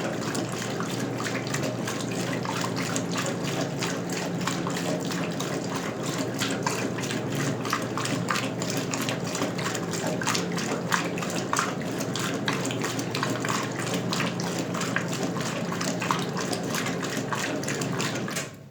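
Water running and splashing inside a 1977 Westinghouse Lavínia washing machine, over a steady low hum from the machine. It cuts off abruptly near the end.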